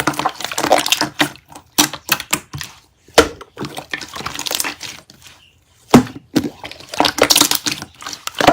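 Slime being squeezed, stretched and poked by hand, giving irregular crackling pops and wet squelches, with a short lull and then a sharp pop about six seconds in.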